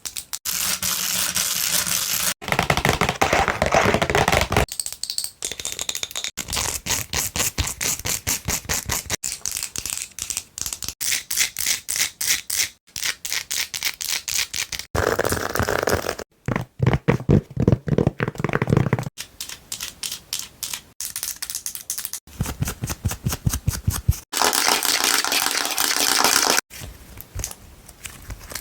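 Long fingernails tapping and scratching fast on a string of different objects, several strokes a second. The sound comes in short stretches that cut abruptly from one object to the next.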